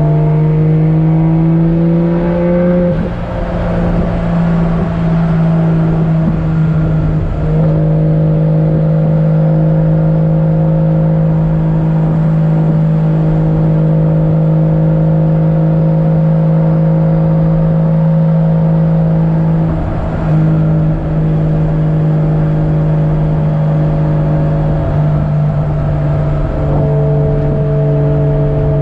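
Turbocharged Toyota 1JZ-GTE VVTi inline-six in a Nissan 240SX S13 running at cruise. Its pitch rises over the first three seconds, then holds a steady drone, with a short dip about three seconds in and another about twenty seconds in.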